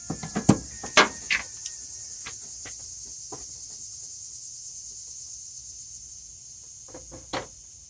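Insects chirring steadily and high-pitched outdoors. Several sharp clinks and knocks of hand-tool work come in the first couple of seconds, and a few more near the end, while the power steering pump is being loosened.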